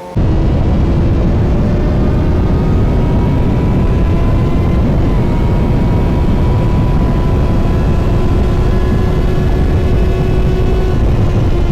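Motorcycle running at a steady speed under heavy wind rush on the microphone, loud and even, with a faint steady engine note that shifts slightly about five seconds in.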